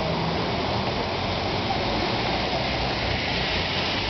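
Heavy rain pouring down in a torrent, a steady dense hiss that does not let up.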